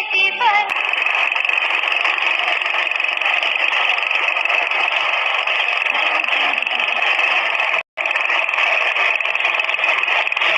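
Power weeder's small engine running steadily, with a short moment of silence about eight seconds in.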